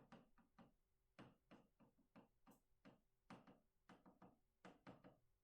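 Faint, quick, uneven taps and clicks of a pen writing, about four a second.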